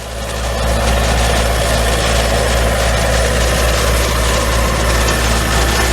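Heavy engine running steadily with a deep, low rumble, swelling over the first second and then holding level.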